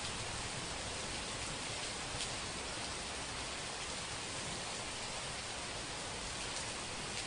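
Heavy rain falling steadily: an even hiss with a few faint drop taps.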